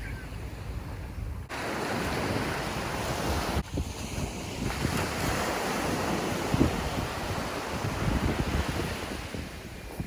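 Sea waves washing onto a beach, with gusts of wind buffeting the microphone.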